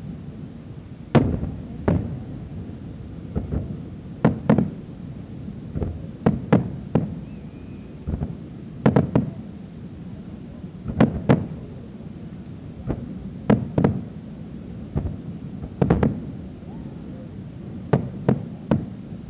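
Aerial fireworks bursting: an irregular series of sharp bangs, about one a second and often in quick pairs or triplets, each trailing off in a short low rumble of echo.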